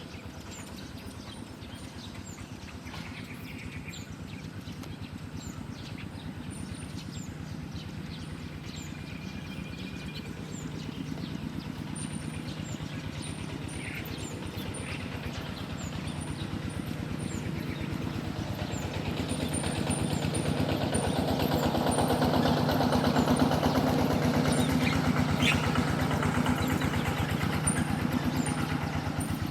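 A motor engine running steadily with an even, pulsing hum, growing louder over about twenty seconds and then easing slightly near the end, with faint high chirps scattered above it.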